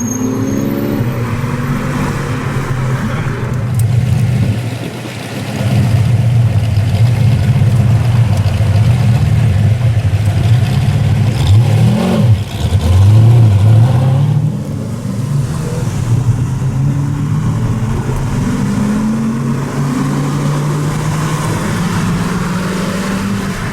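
Saleen S7 V8 engine running, its pitch rising and falling several times, with a sharp quick rev up and back down about twelve seconds in and the loudest pull just after it.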